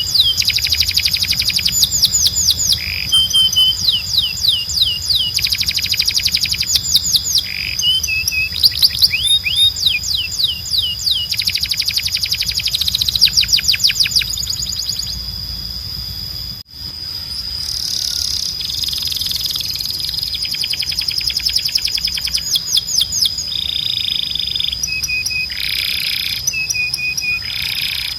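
Male canary singing a tutor song: fast trills of rapidly repeated downward-sweeping notes alternating with short level whistles, over a steady high tone. The sound drops out for an instant about 17 seconds in, and the song then continues with rolling trills and short whistled notes.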